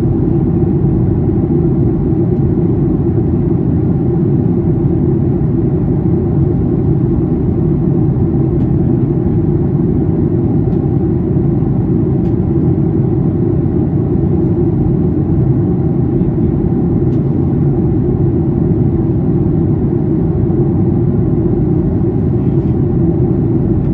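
Steady low drone inside the cabin of a Boeing 737-800 in descent: its CFM56 engines and the airflow over the fuselage.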